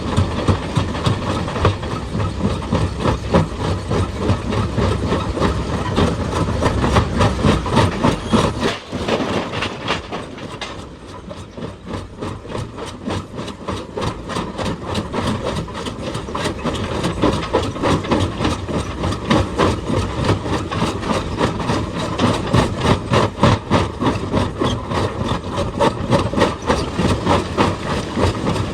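Rapid, continuous hammering over a steadily running diesel engine, as from an excavator's hydraulic breaker pounding rock. The hammering eases briefly about a third of the way in.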